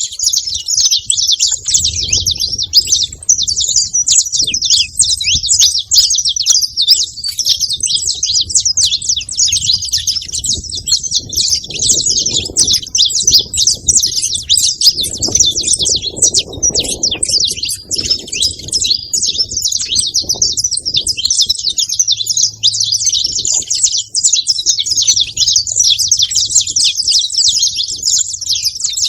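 Saffron finch chirping and singing in a fast, unbroken stream of high, sharp notes.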